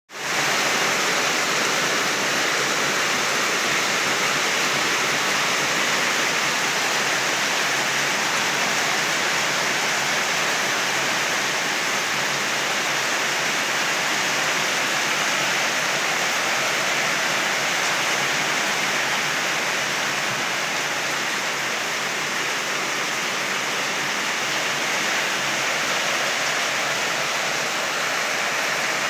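Torrential rain pouring down in a steady, dense hiss with no let-up.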